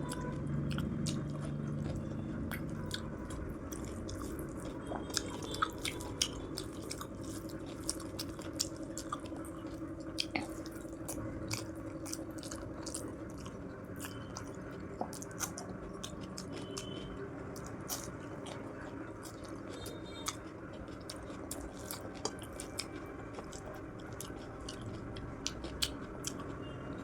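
Close-miked chewing of a meal, with many small, irregular wet mouth clicks and smacks.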